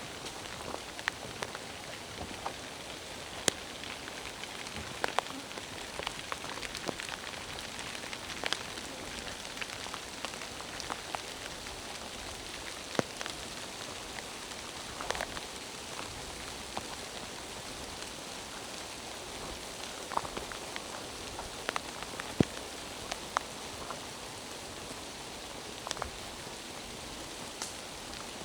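Steady rain falling in a pine forest: an even hiss with many separate drops ticking sharply close by at irregular moments.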